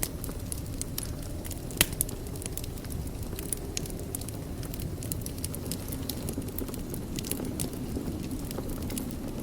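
Wood fire burning in a fireplace: a steady low rumble of flames with many small irregular crackles and one louder pop about two seconds in.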